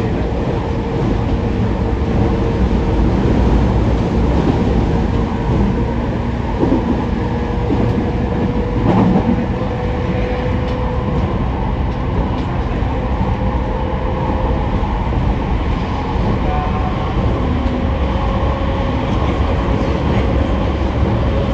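JR East E231 series commuter train running at speed, heard from inside the car by the doors: a steady rumble of wheels on rail with a faint even whine, and a single knock about nine seconds in.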